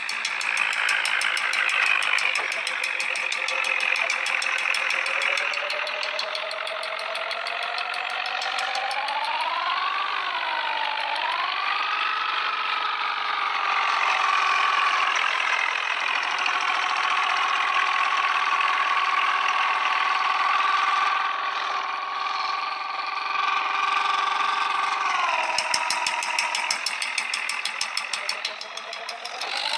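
Tractor diesel engine revving hard. Its pitch climbs, dips and climbs again, holds high and steady for a long stretch as if under heavy load, then drops and rises once more near the end.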